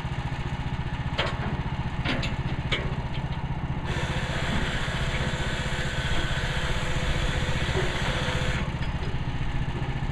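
The engine of a Woodland Mills HM130 Max bandsaw mill running steadily. There are a few sharp knocks in the first three seconds, then a strong hissing rush from about four seconds in that lasts about five seconds.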